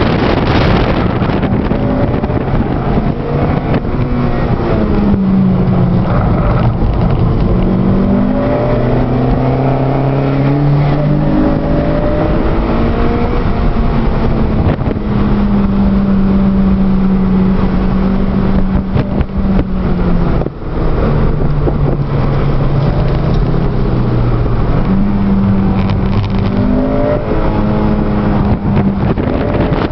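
2008 Honda Civic Si sedan's 2.0-litre i-VTEC four-cylinder, heard from inside the cabin while lapping a race track. The engine note climbs and falls in pitch as the car accelerates and eases off through corners, over steady tyre and wind noise.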